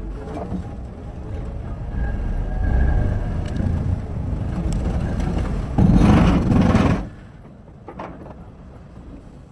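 Terex RH30F mining excavator working, with a steady low engine rumble. About six seconds in comes a loud crash lasting about a second, after which everything goes much quieter.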